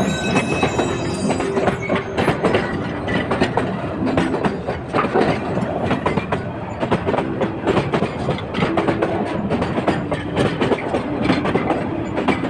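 Freight train's wagons rolling on the rails, with a steady, dense clickety-clack of wheels over the rail joints.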